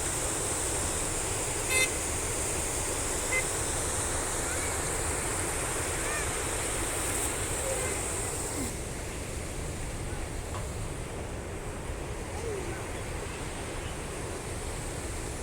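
Steady rush of rainwater flowing down a stream and through culverts. A brief sharp pitched toot sounds about two seconds in, and the high hiss of the water thins out about halfway through.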